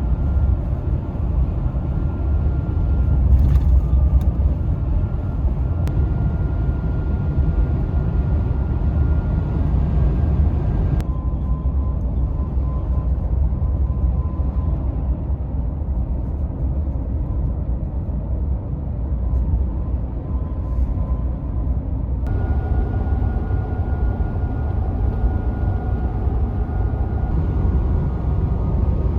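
Ford F-150 pickup driving at road speed: a steady low rumble of engine and road noise, with a faint high whine over it. The sound changes abruptly twice, about a third and two thirds of the way through.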